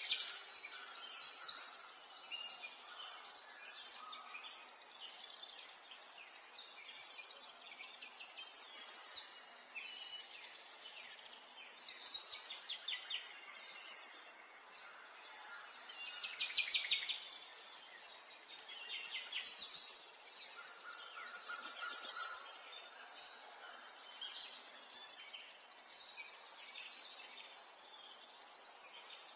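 Birds singing outdoors: short, high, rapid trills and chirps repeating every couple of seconds over a faint steady background hiss.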